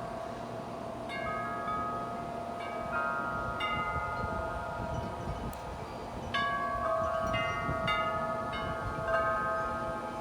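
Several large metal wind chimes ringing in gusty wind: many overlapping struck tones that ring on, with a burst of strikes about six seconds in.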